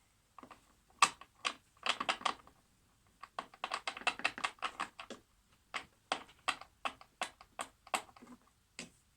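Small hand tools and parts clicking and tapping during a repair: a quick, irregular run of light, sharp clicks, thickest in the middle.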